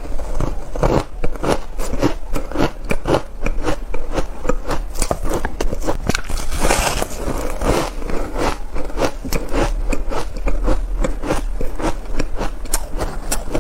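Close-miked ice being bitten and chewed: a continuous run of crisp cracks and crunches, several a second.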